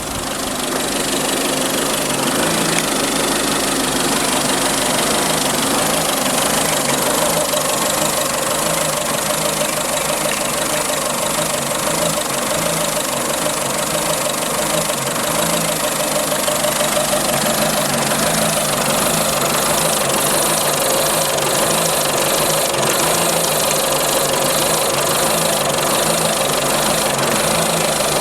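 Mazda 6 diesel engine running steadily, with a regular beat; it gets louder during the first second, then holds level. The owner reports that the car smokes and its DPF warning light is on, and asks whether the fault lies in the DPF or the engine.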